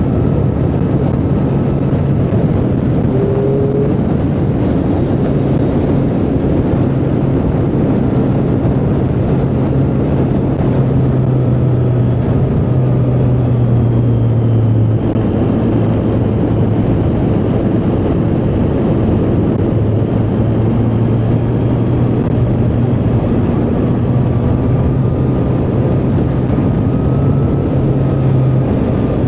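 Triumph Street Triple 765R's inline three-cylinder engine running at a steady, loud cruise, its low note holding nearly level with only small dips and rises in pitch.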